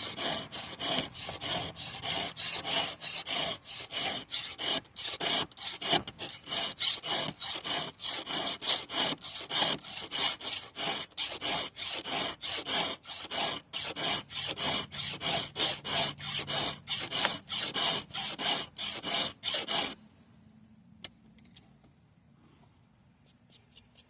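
Round file being stroked across chainsaw chain cutter teeth, a steady run of rasping strokes at about two to three a second, pressed down on the forward stroke and drawn back. The filing stops abruptly near the end.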